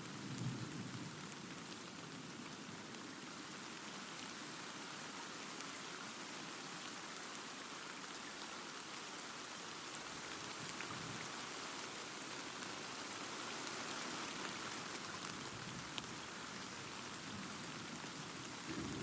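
Steady rain falling. A low thunder rumble fades out about a second in, and another rumble begins at the very end.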